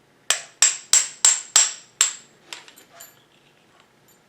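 Hammer striking metal: six quick blows, about three a second, each with a high ring, followed by a few lighter taps.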